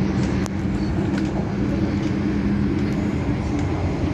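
Adtranz-CAF electric multiple unit heard from inside the car while running between stations: a steady rumble with a low motor hum that fades out about two and a half seconds in, and a few faint clicks.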